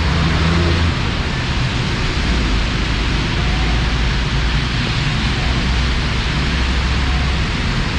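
Heavy monsoon rain pouring down in a steady, loud hiss. Underneath runs a low rumble that stops about seven seconds in.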